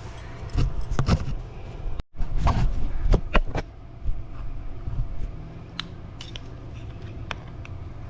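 Scattered sharp clicks and knocks of tools and parts being handled, busiest in the first half, over a low steady hum.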